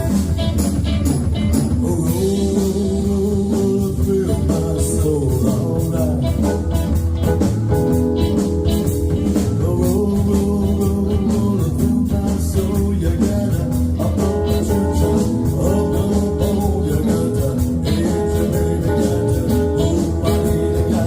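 Live band playing a blues number, with electric guitar over bass and drums.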